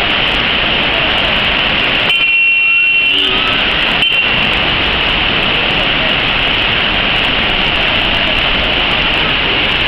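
Steady rushing roar of a waterfall. It breaks off for about a second near two seconds in, when a few steady high tones sound.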